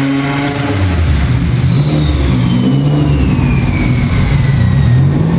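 Turbocharged Subaru EG33 flat-six engine at high revs, then off the throttle about half a second in, dropping to a rough low rumble while a high whine falls slowly and steadily in pitch.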